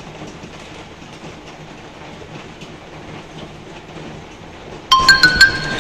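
Steady hiss of heavy rain pouring onto a balcony canopy. About five seconds in, louder music with clear, stepping notes starts suddenly over it.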